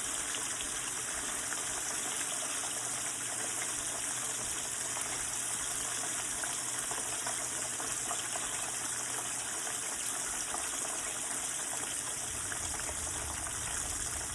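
Chicken deep-frying in hot oil: a steady sizzling hiss with scattered small crackles.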